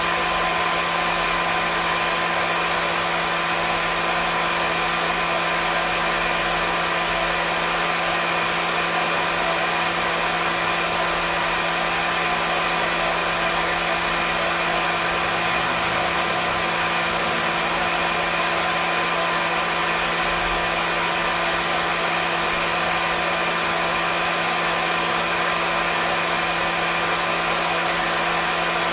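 Hair dryer running steadily: an even blowing rush with a constant motor hum and whine, unchanging throughout.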